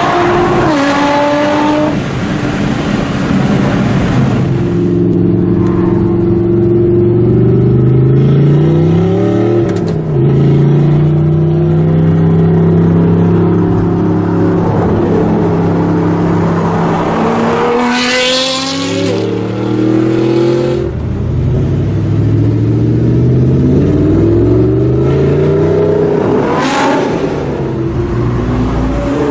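Nissan GT-R R35's twin-turbo V6 through an Armytrix valved exhaust, pulling through the gears. The pitch climbs with the revs and drops back at each shift, several times over, and grows loudest and raspiest at the peaks of the pulls.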